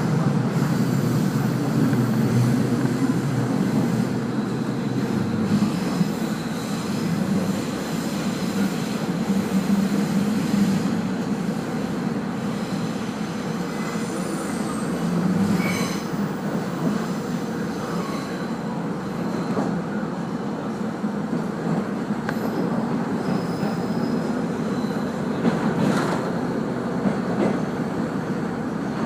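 A passenger train running on the track, heard from inside the carriage: a steady rumble of wheels on rail, with a few brief high wheel or brake squeals near the middle. It is the run-in to its terminus at the end of the journey.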